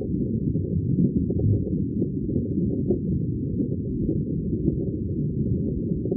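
Underwater ambience of bubbling water: a dense, steady, deep and muffled churn of many small bubbles, with no high sounds at all.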